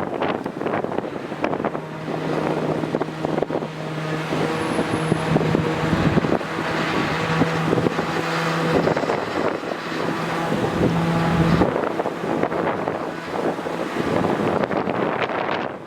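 An engine running with a steady hum, which cuts off suddenly about twelve seconds in, over a constant rush of outdoor noise.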